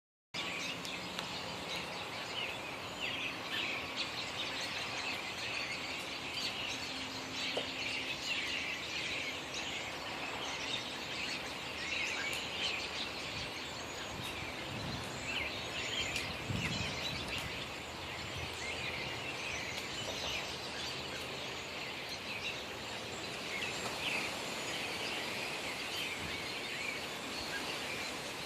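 Many small birds chirping and singing at once, a dense continuous chorus of short high chirps and trills over a steady background hiss.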